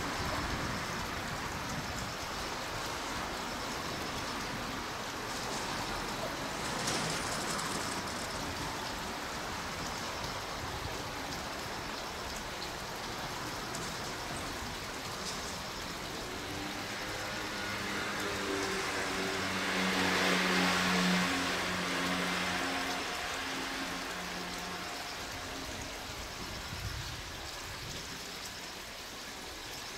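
Steady hiss, with a train passing: a low steady hum and a rising wash of noise swell from about halfway, peak about two-thirds of the way through, then fade.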